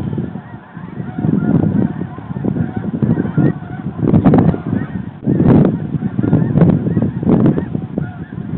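A flock of geese calling, with many overlapping honks coming thick and irregular, loudest about four, five and a half and seven seconds in.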